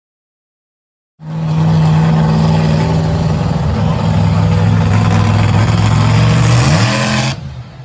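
After about a second of silence, a monster truck engine comes in abruptly, running loud and steady at high revs, its pitch rising near the end before it cuts off suddenly.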